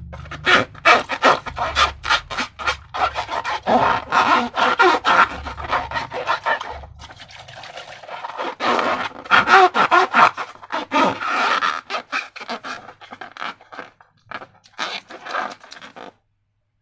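Slime being squished and worked by hand: a fast, irregular run of sticky, wet clicks and squelches, with a short lull about seven seconds in, stopping just before the end.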